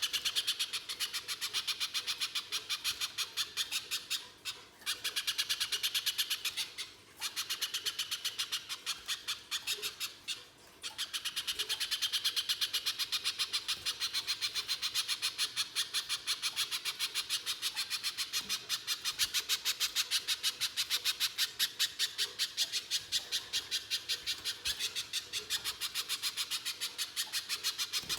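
Little spiderhunter singing a long, harsh, rapid run of repeated sharp notes, about six a second, with brief pauses a few times in the first eleven seconds and then an unbroken run.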